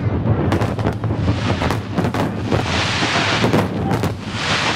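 Aerial fireworks shells bursting in quick succession over a steady low rumble, with a hissing crackle swelling up in the second half.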